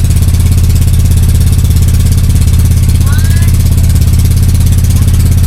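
Boat engine running at a steady speed, a loud low drone with a fast, even pulse.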